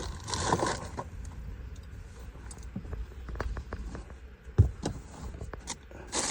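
Small items and hand tools being handled and moved about: scattered light clicks and clinks, with one louder knock about two-thirds of the way through.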